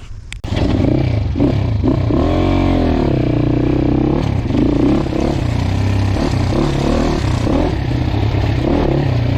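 Dirt bike engine comes in suddenly about half a second in and runs loud under riding load, its pitch rising and falling as the throttle is worked.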